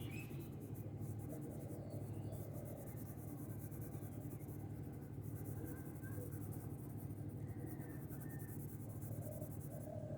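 Colouring strokes scratching back and forth on paper in quick, steady succession, over a steady low hum.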